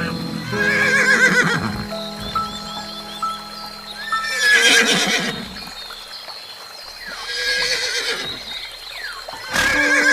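Horse neighing about four times, each a quavering whinny a couple of seconds apart, over background music with steady held notes.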